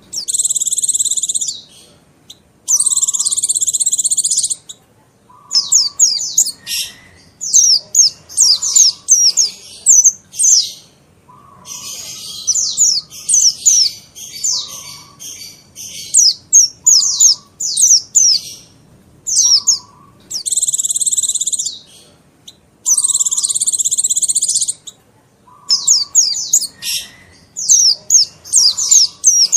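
Mountain white-eye (pleci monty) singing: rapid high twittering of quick down-slurred notes, broken about five times by a dense buzzy trill lasting about a second and a half.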